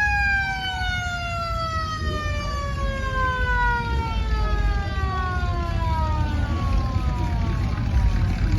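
A siren winding down: one long tone with overtones sliding slowly and steadily lower in pitch, fading out near the end, over a low rumble.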